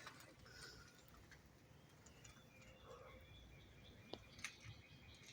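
Near silence: faint bird chirps, with a couple of light clicks about four seconds in.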